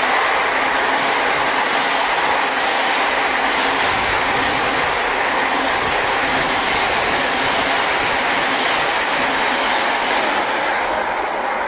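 Freight train of empty flat wagons rolling past at close range, with a steady rumble and hiss of steel wheels on the rails. The high end fades a little near the end as the last wagons go by.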